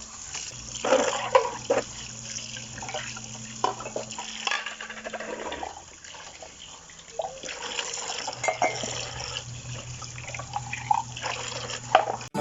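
Dishes being washed by hand at a sink: water running from the tap, with plates and utensils clinking now and then, over a steady low hum.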